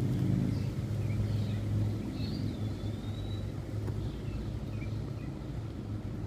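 A steady low motor hum, a little louder during the first two seconds, with birds chirping over it and one longer whistled note about two seconds in.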